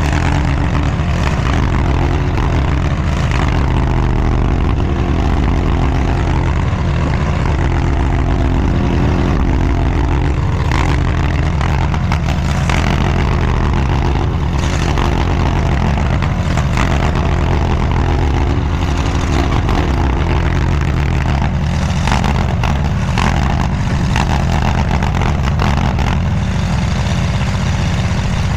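Diggit SCL850 stand-behind mini skid steer's engine running steadily while the machine works dirt, with brief knocks and scrapes now and then.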